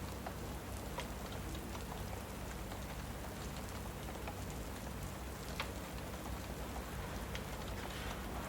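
Steady rain with a few sharp, scattered crackles from a fireplace.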